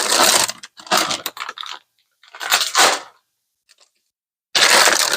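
Plastic bags of baking chips crinkling and rustling as they are handled, in four bursts of about a second each.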